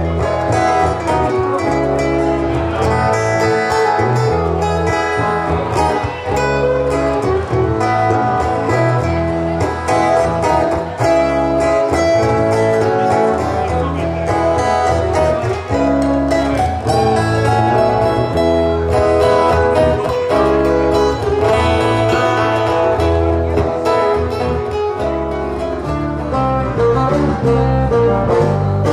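A band playing an instrumental passage without vocals: acoustic guitar over bass, with a steady beat.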